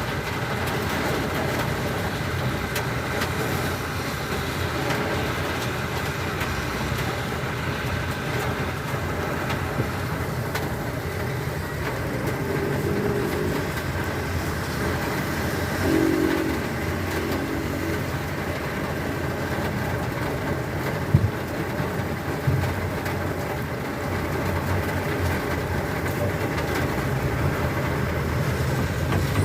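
Steady rush of heavy rain, mixed with the hiss of traffic on a wet road. Two sharp knocks come about a second apart past the middle.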